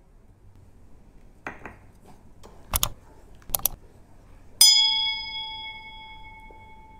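Subscribe-button animation sound effect: a few short mouse-click sounds, then a single bright bell ding, the loudest sound, ringing out and fading over about two seconds.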